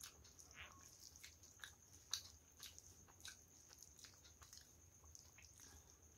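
Faint close-up eating sounds: soft chewing and small wet mouth clicks, with a light squish as fingers mix and scoop rice. There is one sharper click about two seconds in.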